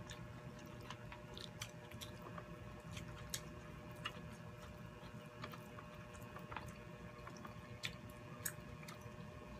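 Quiet chewing and eating by hand, with scattered small clicks and smacks of mouths and fingers on the food, over a faint steady hum.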